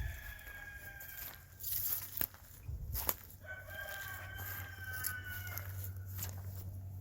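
A rooster crowing twice: the tail of one crow fading out about a second and a half in, then a full crow starting about three and a half seconds in and lasting about two seconds. A few sharp knocks fall between the crows.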